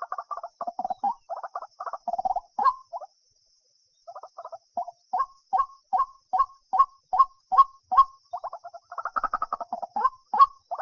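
White-breasted waterhen calling: a rapid run of repeated notes, a pause of about a second, then evenly spaced notes about two to three a second that crowd back into a dense run near the end.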